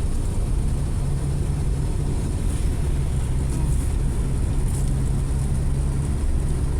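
Ford Escape driving on a road test, its engine and road noise making a steady low rumble. No grinding is heard from the transmission, which has just been repaired.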